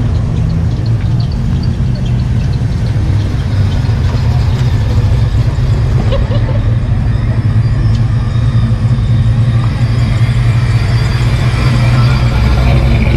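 A car engine idling steadily at a low rumble, with faint voices of people talking behind it.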